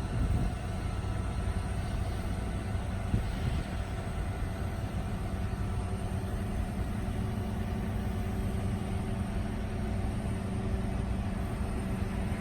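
GMC C7500 bucket truck's engine running steadily at idle while its hydraulics fold the boom down, with a single short knock about three seconds in.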